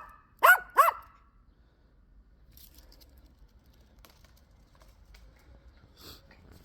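Small Biewer terrier giving two short, high barks in quick succession about half a second in, barking on the "speak" command. Then only faint rustling and light clicks.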